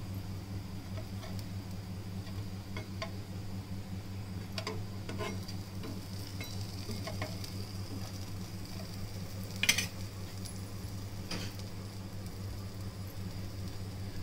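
Rava-coated suran (elephant foot yam) slices sizzling as they shallow-fry in oil in a nonstick pan, with scattered clicks and scrapes of a steel spatula as the slices are turned and one sharper clack about ten seconds in. A steady low hum runs underneath.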